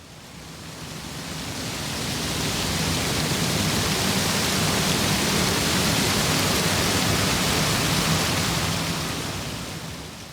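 Blizzard wind rushing in a steady hiss that swells up over the first few seconds, holds, and fades away near the end.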